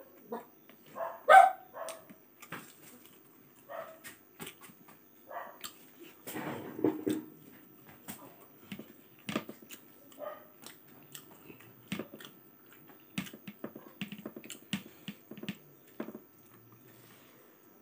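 Close-up eating sounds: chewing and lip smacks, heard as many short wet clicks. One loud sharp call cuts in about a second and a half in.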